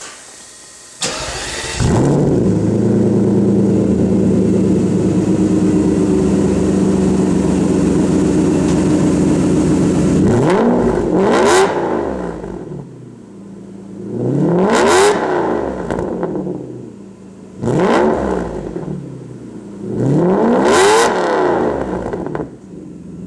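A 1992 Mercedes-Benz 600SEL's V12 breathing through an Eisenmann race muffler with the resonator deleted. It starts about a second in and settles into a steady idle, then is revved three times, each rev rising and then falling in pitch.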